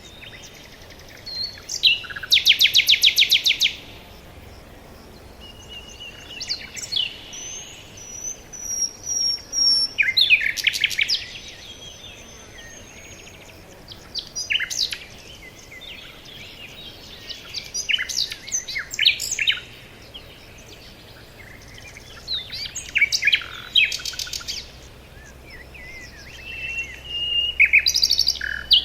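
Several forest birds singing, one phrase after another every few seconds: fast rattling trills of rapidly repeated high notes, short chirps and thin whistled notes, over a faint steady background hiss.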